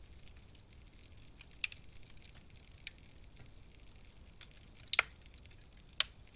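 Wood fire in a fireplace crackling with a soft continuous hiss, broken by a few sharp pops. The loudest are a double snap about five seconds in and another a second later.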